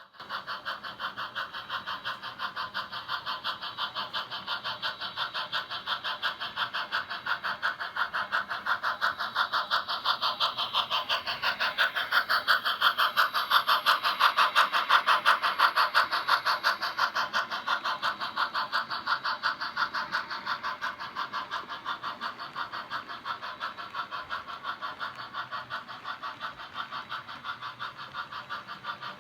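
An O-scale model train running past with a steady rhythmic chuffing, about two and a half beats a second. It grows louder toward the middle and then fades as it moves away.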